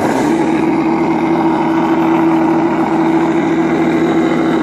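Radio-controlled Tiger tank's sound unit playing a Maybach tank-engine sound, held at steady raised revs with a constant hum.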